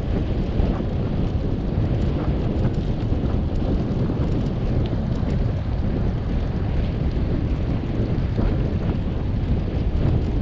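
Wind buffeting a bike-mounted camera's microphone while riding: a steady low rush with no letup.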